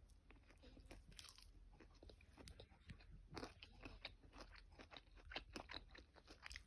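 Faint crunching and chewing of a breaded chicken nugget in the mouth, irregular small crunches that grow more frequent about halfway through.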